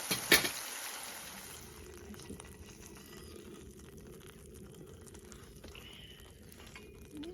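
Food sizzling in an oiled frying pan, with a sharp knock about a third of a second in; the sizzle dies down within the first two seconds, leaving faint clicks.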